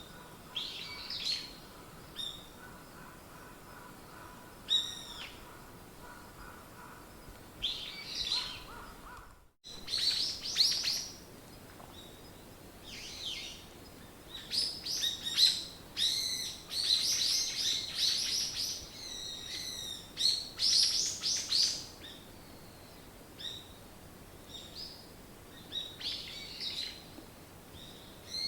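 Wild songbirds chirping and singing: short high calls and trills scattered at first, then a dense stretch of overlapping song in the middle before it thins out again. A faint steady tone sits under the calls for the first nine seconds, ending with a brief dropout.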